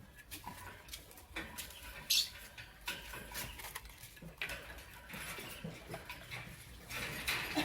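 Lovebirds making short, irregular squeaks and chirps among small clicks and scratches, with one loud, sharp chirp about two seconds in.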